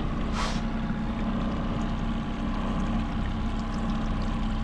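A fishing boat's motor runs steadily under way, a constant hum with wind and water noise over it. A brief rush of noise comes about half a second in.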